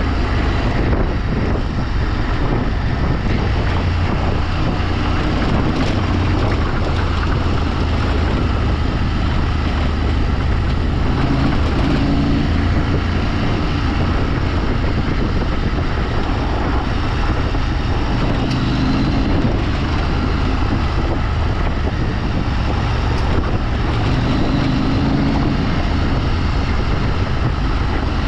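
Vehicle engine running steadily under way, its pitch shifting a little every few seconds, with wind noise on the microphone.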